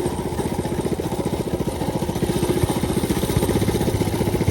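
Mini bike's small single-cylinder engine running while riding, a steady rapid putter that gets a little louder about halfway through.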